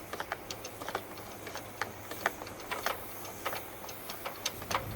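Dryer vent being blown out with a leaf blower: irregular sharp clicks and ticks, several a second, over a faint steady low hum.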